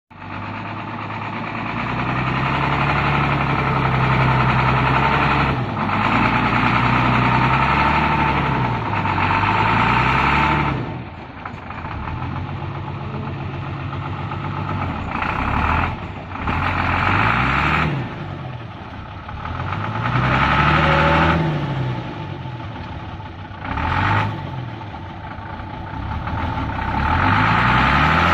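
Hino truck's six-cylinder diesel engine labouring and revving up and down repeatedly, its pitch rising and falling every two to three seconds, as the truck works its way through deep mud.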